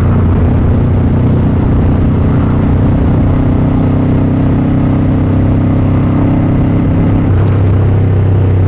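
Motorcycle engine running at a steady speed while riding, with wind and road noise; the engine note changes slightly about seven seconds in.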